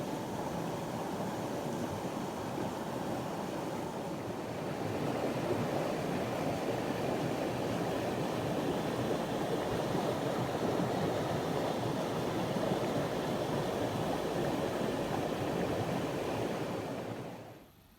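A river in flood rushing in a steady noisy wash, growing a little louder a few seconds in and fading out just before the end.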